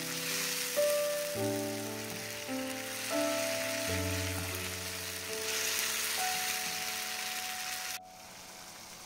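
Diced fresh tomatoes frying in olive oil in a frying pan, with a steady hissing sizzle, under background music of sustained notes. Sizzle and music both cut off abruptly near the end.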